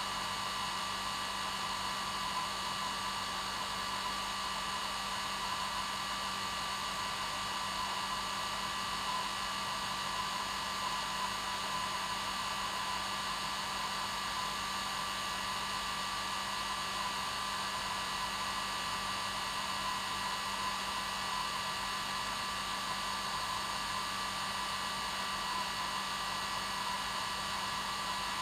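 Hair dryer running steadily on one setting, a constant blowing hiss with a steady whine, used as white noise for getting a baby to sleep.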